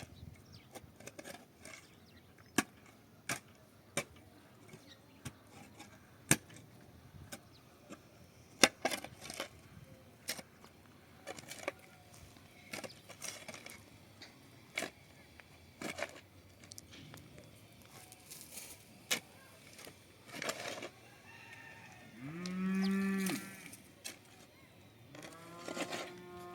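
Scattered sharp knocks and clicks, then a low animal call lasting over a second about 22 s in, and a second, higher call near the end.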